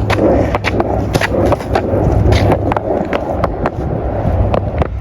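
Skateboard wheels rolling with a steady rumble over a rough path, with frequent sharp clicks and knocks from bumps and cracks.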